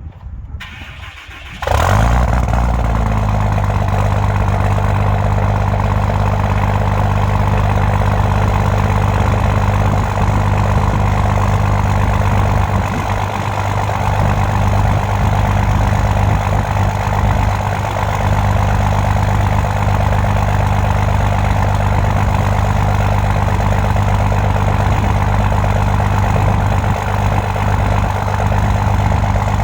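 2007 5.9 Cummins inline-six turbo-diesel cold-starting at 20°F without a block heater plugged in, relying on its grid heater. It catches suddenly about two seconds in, its speed settles within a second, and it runs at a steady cold idle.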